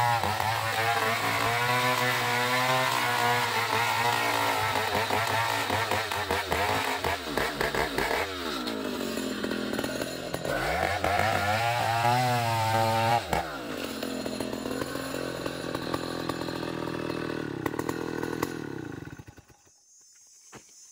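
Trio band sawmill cutting a long ulin (Borneo ironwood) log. The machine's pitch wavers under load and dips and recovers twice midway. It then winds down and stops near the end.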